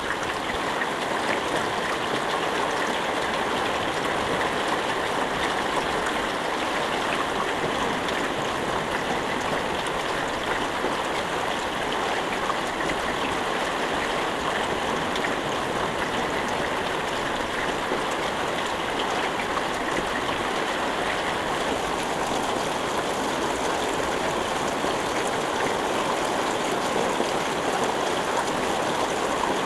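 Steady rain falling without thunder: an even, unbroken hiss of many drops.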